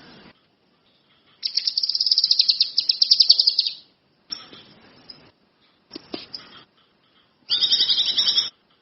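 A kinoi songbird singing in bursts: a fast, high trill of rapidly repeated notes lasting about two and a half seconds, a few quieter short phrases, then another loud trill near the end.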